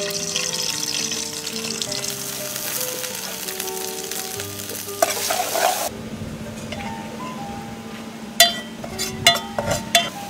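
Food sizzling in a pot over a wood fire while a metal spatula stirs it, striking the pot in about five sharp clinks near the end.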